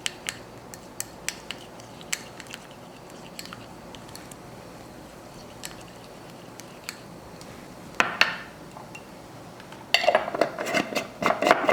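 Kitchen utensils clinking and tapping against dishes in short, scattered clicks, with a louder clatter about eight seconds in and busier handling near the end.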